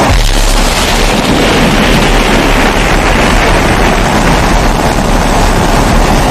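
Pressurised kerosene stove (babour) burning with a loud, steady rushing hiss and a low rumble underneath.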